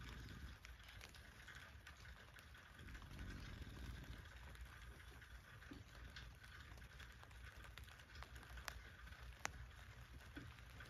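Faint rain on a tent, heard from inside: a steady soft patter with a few sharper single drop hits, the loudest of them near the end.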